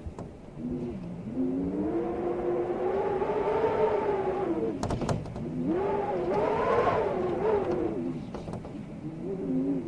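Storm wind howling in gusts: a pitched moaning tone that rises and falls in two long swells, with a few sharp clicks between them.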